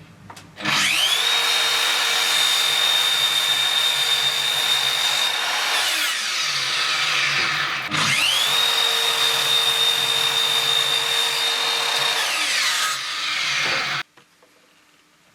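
Electric power tool motor spinning up to a steady high whine, then winding down; it runs twice, and the second run cuts off abruptly.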